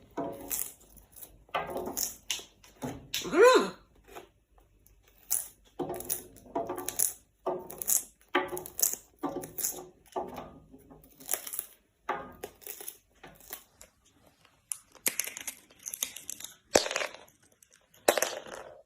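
Parrot making a string of short, raspy calls and chatter, with one pitched squawk that rises and falls about three and a half seconds in.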